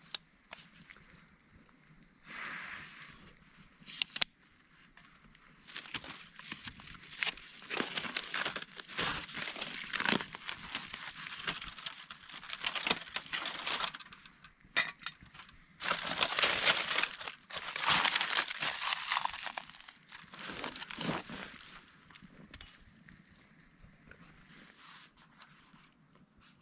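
Irregular rustling and crunching handling noise in uneven bursts, with a few sharp clicks, heaviest in the middle and dying away near the end.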